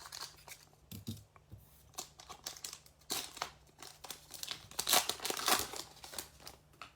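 A trading-card pack's foil wrapper being torn open and crinkled by hand: irregular crackles and rustles, loudest about five seconds in.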